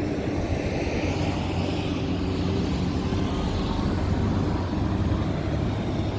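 Road traffic: a large vehicle's engine running with a steady low hum under an even noise of passing traffic.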